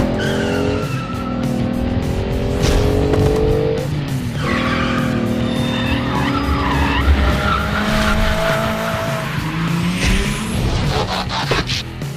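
Car engine revving and tyre-skid sound effects over background music, the engine pitch rising and falling several times.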